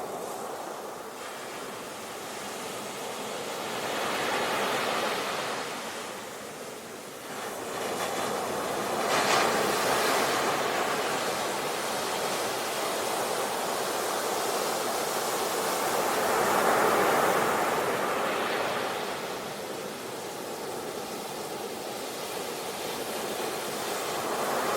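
Ocean surf: waves breaking and washing up a shore, the rush of water swelling and easing every few seconds.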